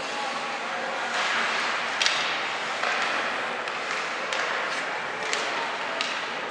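Steady hiss-like noise of a youth game in an arena, broken by a few sharp clicks and knocks, the sharpest about two seconds in.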